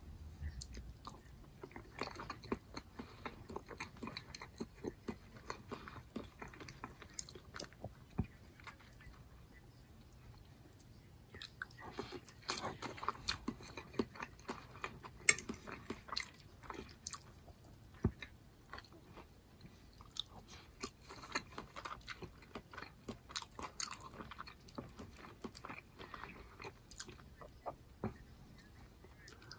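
A person chewing soft cooked food (potatoes, ground turkey, chicken and squash) close to the microphone, with wet mouth clicks and smacks in runs broken by short pauses. There is one sharp click about halfway through.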